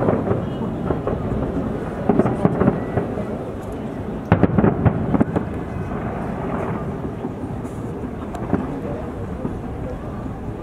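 Fireworks bursting one after another: a continuous rolling rumble of explosions with clusters of sharp bangs and crackles, the densest about four seconds in.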